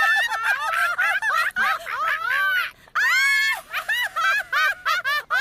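Cartoon character voices making a fast string of high-pitched squawks and cackles, each call bending up and down in pitch.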